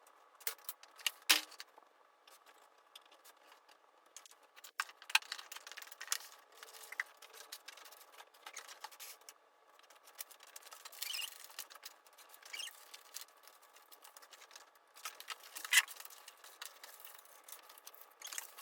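Orders being packed by hand: paper and packaging rustling and being handled, with scattered sharp clicks and taps, the loudest about a second in, about five seconds in, and near the end.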